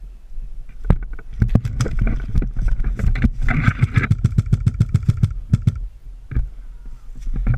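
Airsoft gun firing in rapid bursts: fast strings of sharp clicks, densest about halfway through with a whine running along, then breaking off about six seconds in.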